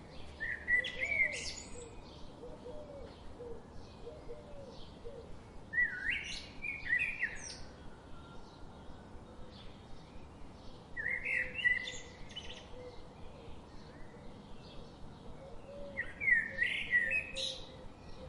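Birdsong: a bird sings a short phrase of quick chirps four times, about every five seconds, over fainter chirping in the background.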